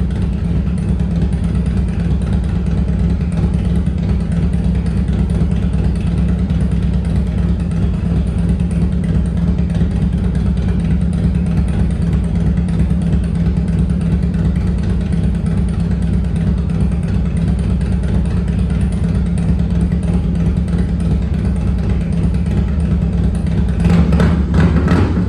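2005 Harley-Davidson FXDI's Twin Cam 88 V-twin idling steadily, on its first run after an S&S cam plate, oil pump and cam chain tensioners were fitted. About a second before the end, a louder sound with sharp clicks comes in.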